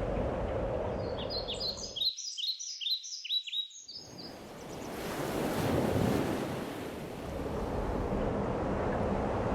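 Steady rushing noise of waves and wind. A bird's rapid run of high chirps comes in about a second in; the rush cuts out abruptly at about two seconds, leaving the chirps alone. The surf noise returns and swells at about four seconds.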